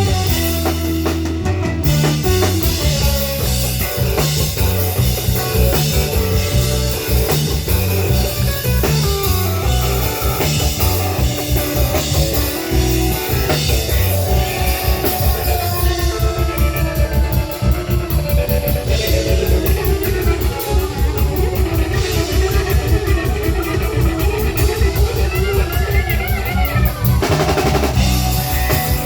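Live rock band playing a song: drum kit keeping a steady beat under guitar and bass, with some singing.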